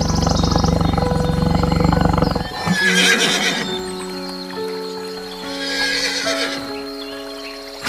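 Horse whinnying twice, shrill calls about three and six seconds in, over soft background music. A low rumbling animal sound fills the first two and a half seconds.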